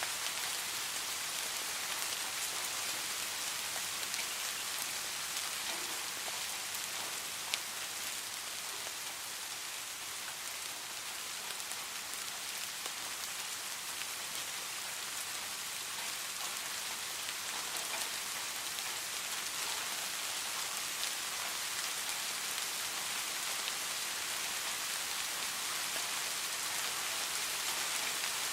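Steady rain falling on a surface, an even hiss dotted with many small individual drop ticks, with one sharper tick about seven and a half seconds in.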